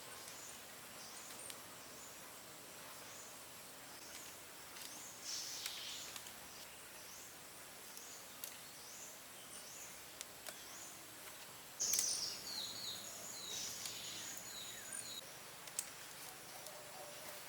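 Small birds chirping: runs of short, high, falling chirps, the loudest a little past halfway through, over a faint steady hiss, with a few sharp clicks.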